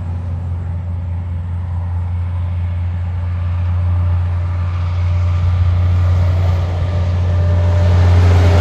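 A heavy truck approaching: a steady low diesel drone with tyre noise that builds, growing steadily louder, and a faint whine coming in near the end.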